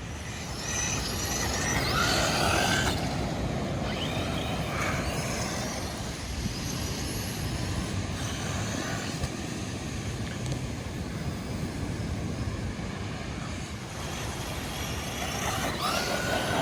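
Traxxas Hoss RC monster truck's brushless electric motor whining in short rising and falling bursts as it is throttled and braked, over a steady rushing background noise.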